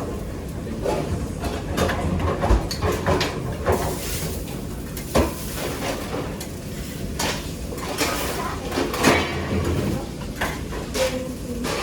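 Kitchen work: pots, pans and utensils clattering and clinking in irregular knocks over a steady background noise.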